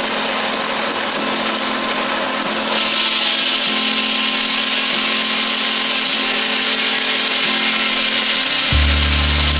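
Sawmill's circular saw cutting through a log, a steady loud hiss of the blade in the wood that grows brighter about three seconds in. A deep steady hum joins it near the end.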